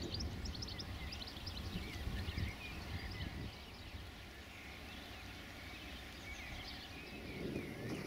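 Several birds chirping and singing in short, quick phrases, over a low rumble that eases off a few seconds in.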